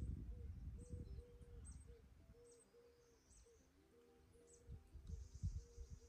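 Faint outdoor ambience of small birds chirping, short high calls repeating every half second or so, over low rumbling on the microphone that is strongest at the start and again near the end.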